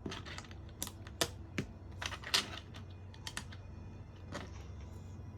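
Irregular sharp clicks and taps of small LEGO plastic parts being handled and pressed together, about a dozen clicks spread unevenly.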